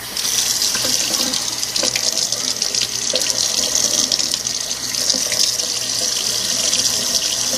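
Kitchen or bathroom tap turned on and running steadily into a sink for hand-washing.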